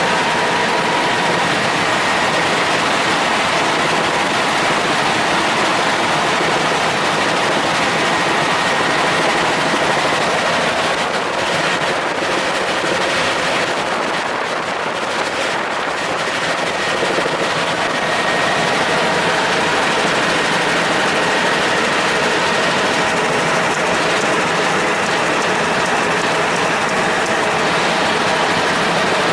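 Helicopter in flight: steady rotor and engine noise with a faint high whine, loud and unbroken.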